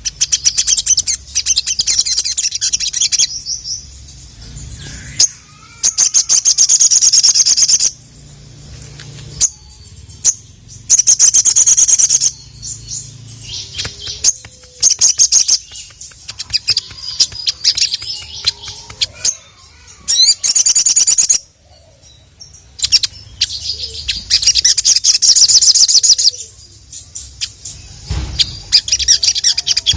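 Sogok ontong (sogon) bird singing a loud, fast, high chattering song in repeated bursts of one to three seconds with short pauses between them.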